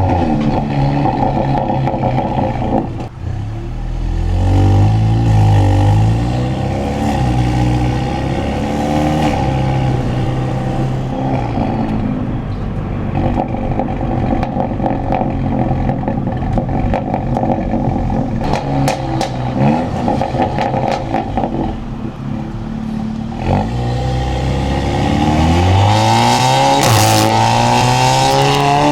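Stage 2 tuned MK7.5 Volkswagen Golf R's turbocharged 2.0-litre four-cylinder engine and exhaust revving and accelerating, pitch climbing and dropping through gear changes. There are bursts of crackles and pops on lift-off, about two-thirds through and again near the end.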